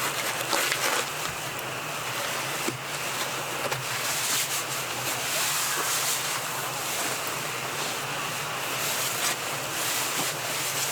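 Wind rushing through forest trees, a steady noise that swells and eases, with a few faint clicks.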